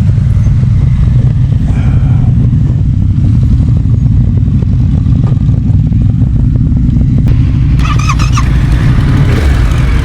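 Trail motorcycle engine running steadily at low speed off-road, with many small clicks over it. A brief high squeak comes about eight seconds in.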